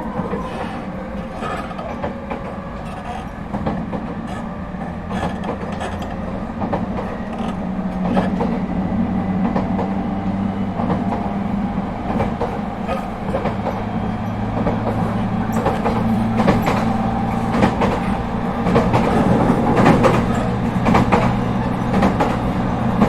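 ET127 series electric multiple unit, refitted with Toyo IGBT-VVVF traction equipment, running along the line and heard from inside the car. Its wheels click over the rail joints above a steady hum and the rolling noise, which grow gradually louder.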